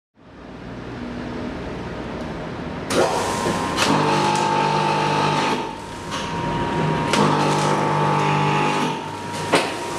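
Automatic tempeh packaging machine running in cycles: a motor hum with a steady whine starts and stops every two to three seconds, marked by sharp mechanical clicks.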